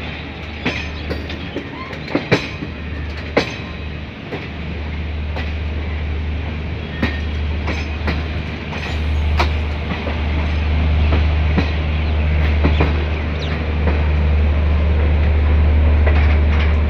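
Passenger express train running through a yard on the approach to a station, heard from the open doorway of a coach. Steady rail and wheel noise with a few sharp clacks as the wheels cross rail joints and points, and a low rumble that grows louder in the second half.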